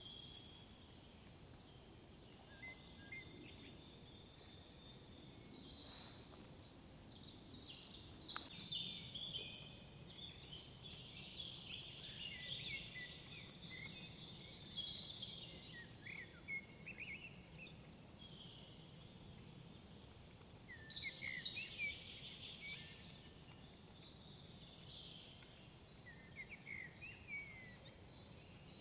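Songbirds singing in a forest: short high chirping and trilling phrases that come and go every few seconds, over a faint low background rumble.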